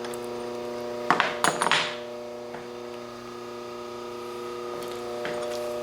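Steady electrical hum in a workshop, with a short cluster of clinks and knocks of small metal parts being handled about a second in and a few faint clicks later.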